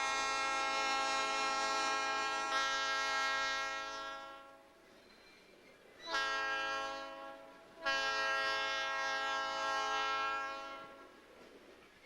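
Locomotive air horn of USAF Engine 4040 sounding three blasts: a long one that stops about four and a half seconds in, a short one about six seconds in, then another long one.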